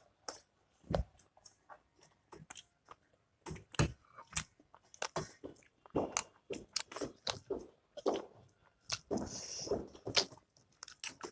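Close-up chewing and mouth smacking of people eating pork-fat pickle with rice, in irregular wet clicks and smacks.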